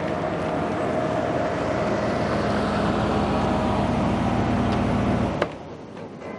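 An SUV drives up and comes to a stop, its engine running steadily, then the engine cuts off suddenly about five seconds in, with a click as it stops.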